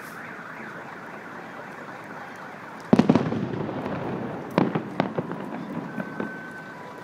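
Fireworks shells bursting in fog: a loud bang about three seconds in, followed by a burst of crackling, then a few more sharp bangs and scattered crackles.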